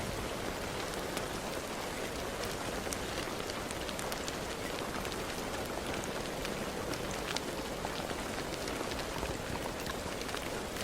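Steady rain, with many individual drops ticking sharply on a nearby surface over the constant hiss.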